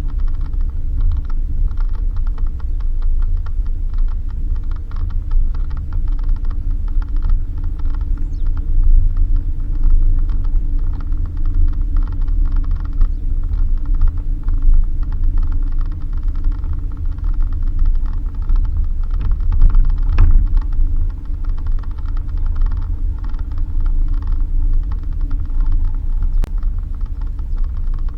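Suzuki Jimny driving on a rough dirt road: a steady low rumble of engine and tyres, with constant creaking and rattling over the bumps.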